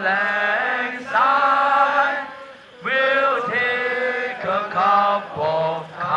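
Voices chanting in a sung, repetitive line: held, pitched phrases about a second long that slide between notes, with brief breaks between them.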